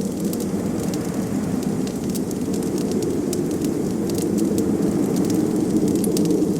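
Wood fire crackling, with scattered sharp pops and ticks, over a steady low rush of blizzard wind.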